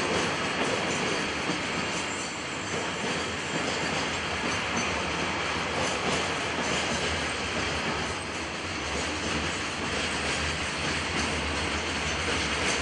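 Loaded container flatcars of a freight train rolling past close by: a steady, unbroken noise of steel wheels running on the rails.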